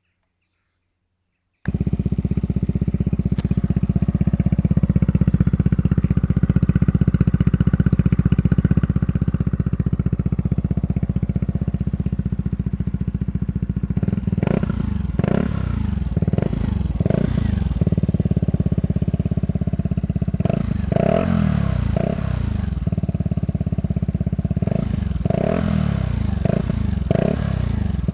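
Kymco Downtown 125i scooter's single-cylinder four-stroke engine running through a LeoVince aftermarket exhaust. The engine comes in abruptly about two seconds in and idles steadily. In the second half it is revved in a series of short throttle blips, each rising and falling in pitch.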